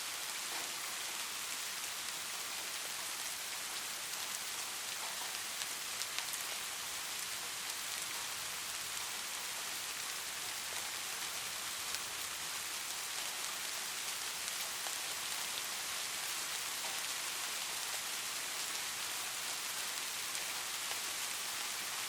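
Light rain falling steadily, an even hiss with the odd single drop ticking out a little louder.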